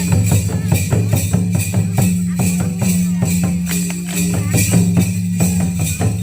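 Ho Munda traditional dance music: quick, even drumbeats with a metallic jingling over them, at a steady pace.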